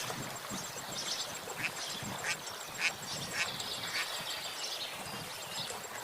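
Many birds chirping and twittering over a steady background hiss, with a few louder, harsher calls about two to three seconds in.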